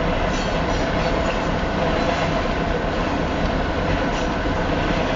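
Freight cars of a Union Pacific double-stack container train rolling past at about 46 mph: the steady, continuous noise of steel wheels on rail.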